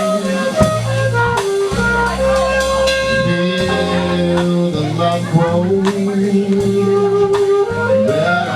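Live jazz-funk band playing an instrumental passage: a stepping lead melody over bass and drums.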